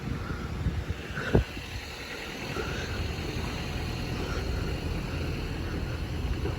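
Wind rumbling on the microphone over a low outdoor vehicle rumble, with a single sharp knock about a second and a half in and faint, scattered high chirps.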